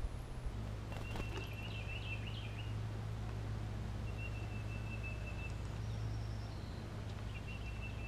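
A songbird gives three phrases of high, even-pitched whistled notes, a second or two each, over a steady low hum, with a brief light clatter about a second in.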